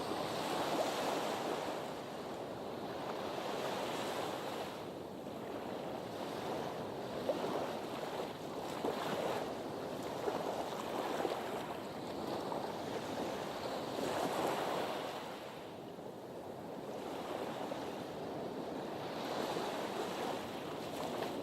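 Sea surf washing in, swelling and dying away every few seconds.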